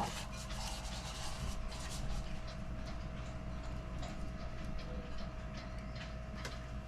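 Faint scraping and rubbing as thick, paste-like epoxy is scooped out of its tin into a cup, with small irregular ticks over a steady low hum.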